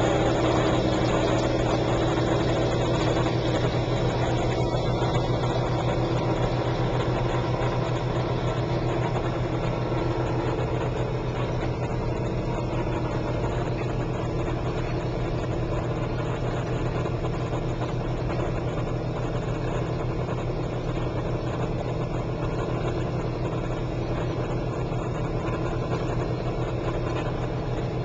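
1957 James portable dishwasher running its rinse cycle: a steady motor hum with water spraying and churning inside the tub.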